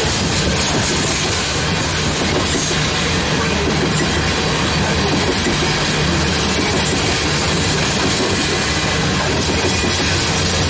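Coal train's loaded freight cars rolling past close by: a steady, loud noise of steel wheels on rail and rattling car bodies, with no locomotive engine heard.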